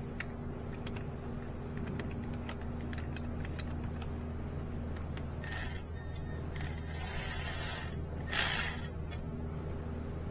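Ratchet wrench clicking in short bursts as starter-bracket bolts are worked loose, over a steady low hum.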